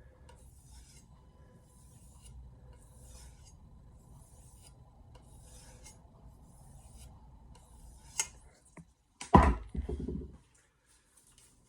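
A Santoku knife edge stroked on a leather strop loaded with 2-micron liquid compound: about a dozen soft swishing strokes at an even pace, roughly one and a half a second. A sharp click and then a loud knock, the loudest sound, come near the end.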